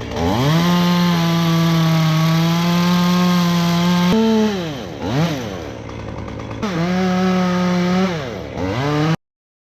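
Chainsaw at full throttle cutting the notch and back cut in a tree trunk. It holds steady for about four seconds, drops back toward idle, then revs up twice more, and the sound cuts off abruptly near the end.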